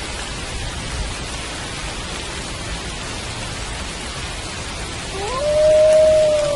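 Steady rain falling. About five seconds in, a wolf starts a howl that rises quickly in pitch and then holds one long steady note.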